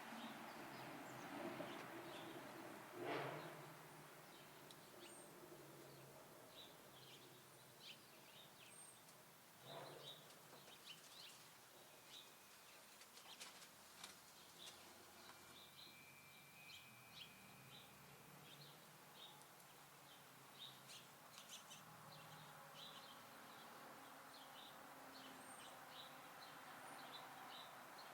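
Small songbirds at a backyard feeder chirping faintly, many short high chirps scattered throughout. Twice there is a soft knock.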